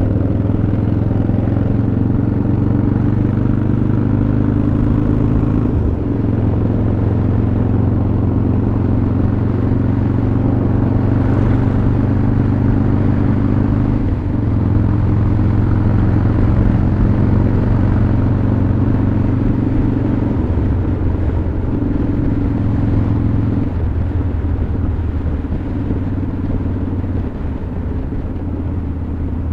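Harley-Davidson Dyna Super Glide Custom's V-twin engine running while the bike is ridden. The engine note is steady but changes step several times, with short dips in level about 6 and 14 seconds in.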